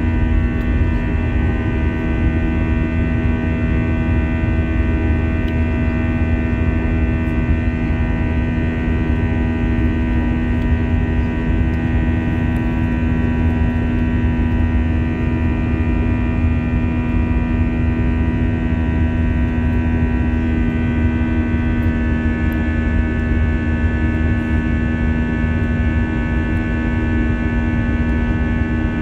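Steady drone inside an Airbus A321 airliner cabin: a low rumble with a set of steady engine tones from its IAE V2533 turbofans. About 21 seconds in, the higher tones shift in pitch and settle at new levels, as the engine power changes.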